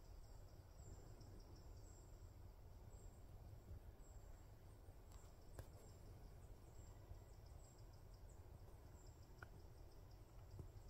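Near silence: faint outdoor ambience with a very high, thin chirp repeating about once a second, a low rumble underneath, and a single sharp click about halfway through.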